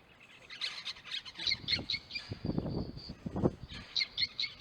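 A colony of small birds calling: rapid high chirps throughout, with a cluster of louder, lower calls in the middle.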